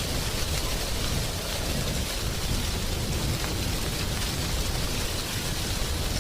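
Wind blowing through trees, rustling dry autumn leaves in a steady hiss over a low rumble.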